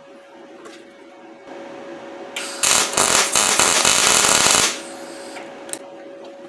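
YesWelder MP200 welder's arc crackling for about two seconds as a short weld is laid on steel railroad spikes, starting a couple of seconds in and cutting off sharply, over a steady faint hum.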